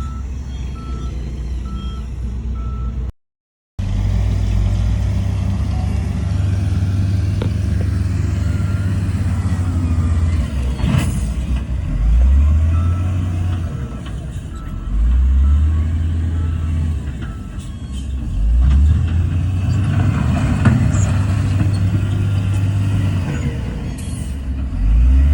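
Heavy diesel earthmoving machines working, their low engine note rising repeatedly as they rev under load, with a reversing alarm beeping steadily over it. The sound cuts out for a moment about three seconds in.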